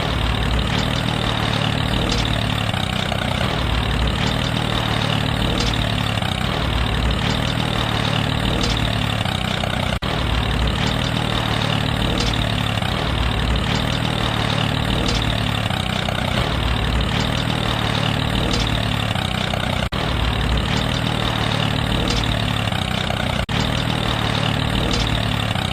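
Small engine of a homemade mini tractor running steadily.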